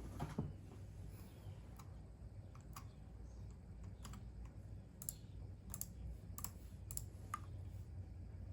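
Computer keyboard being typed on in sparse, irregular keystrokes: a quick cluster right at the start, then single or paired taps every half second to a second.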